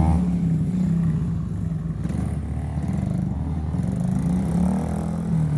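Small dirt bike engine running, its pitch wavering up and down a little as the throttle is eased on and off.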